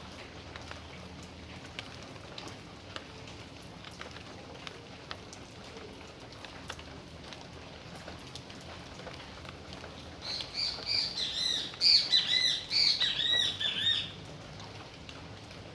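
Steady rain falling, with scattered drips ticking on surfaces. About ten seconds in, a bird calls loudly in a rapid string of chirps for about four seconds.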